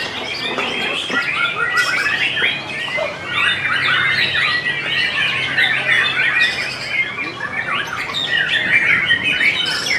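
Caged songbirds singing at once in a bird-song contest. Rapid, overlapping chirps, trills and squawky calls run without a break.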